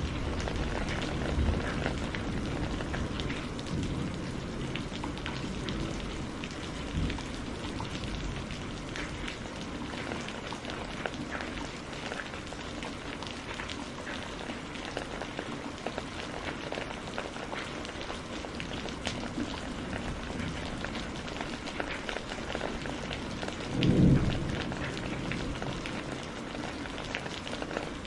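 Steady rain falling, with many small drops pattering, and low thunder rumbling in the first few seconds. Near the end comes a short, low boom of thunder, the loudest moment.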